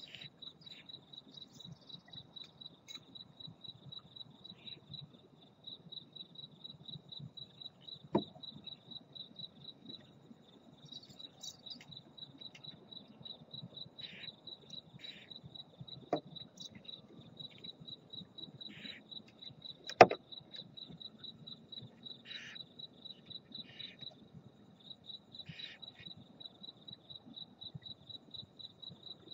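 A cricket chirping steadily in a run of evenly spaced, high chirps. Three sharp knocks break in, the loudest about two-thirds of the way through, along with a few short hissy bursts.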